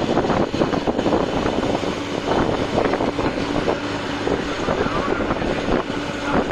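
Truck driving at road speed: a steady roar of engine and road noise mixed with wind on the microphone.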